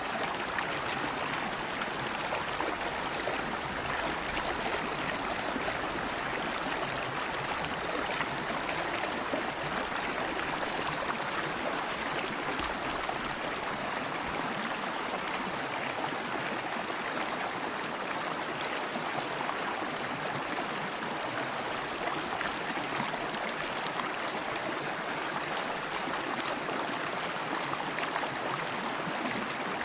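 River water flowing steadily over rocks, an even rushing with a gurgling burble.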